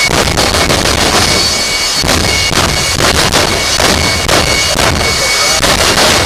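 Jet-powered truck's jet engine running very loud at full power, a dense rush with a steady high whine and many irregular cracks.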